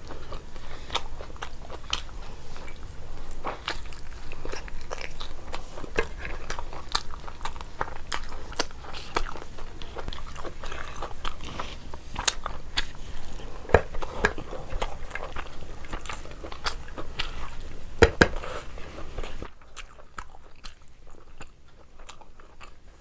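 A person chewing biryani close to the microphone, with many short wet mouth clicks and crunches; it goes much quieter about 19 seconds in.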